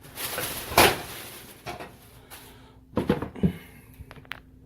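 Sneakers and their box being handled: a rustle over the first second with a sharp knock near its end, then a couple of soft thumps about three seconds in and a few small clicks.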